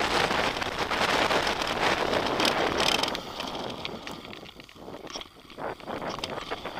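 Mountain bike riding over a rough trail, with wind on the camera microphone and tyres rattling over stones. After about three seconds the noise drops off as the bike slows, leaving scattered clicks and rattles.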